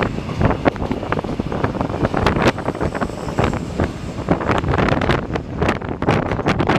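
Strong wind buffeting the camera's microphone: a loud, uneven rumble with irregular crackles, over the running noise of a subway train at the platform.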